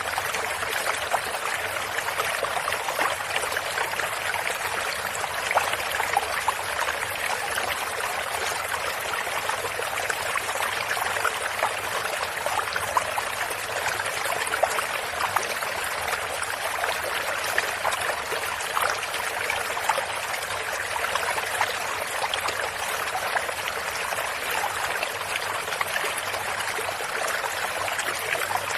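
Stream water running and trickling steadily, with small splashes scattered through it.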